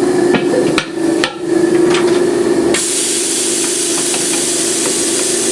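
Tire-changer work at a pneumatic tire machine: a steady motor hum and a few metal knocks, then about three seconds in a loud, steady hiss of compressed air starts suddenly.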